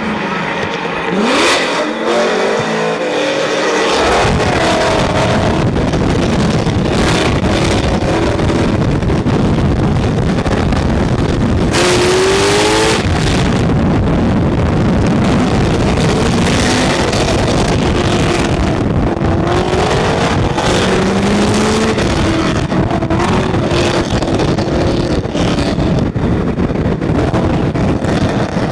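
Car engines revving and accelerating, their pitch rising and falling in several sweeps over a constant loud rumble, with a sudden loud rush of noise about twelve seconds in.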